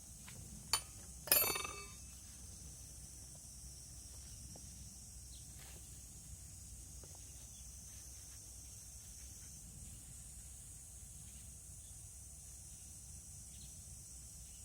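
Two sharp knocks about half a second apart; the second is a short ringing metallic clink. Then a faint steady high hiss.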